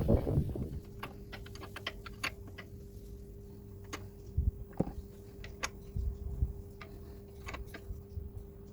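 Light, irregular clicks and ticks of hand tools on metal as the retaining bolt of a newly fitted engine pulley is worked on, some clicks coming in quick clusters. A thump at the very start and a faint steady hum underneath.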